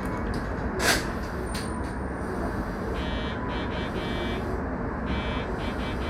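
Steady background noise inside an electric commuter train, with a sharp knock about a second in and a high, buzzer-like ringing tone that comes and goes from about three seconds in.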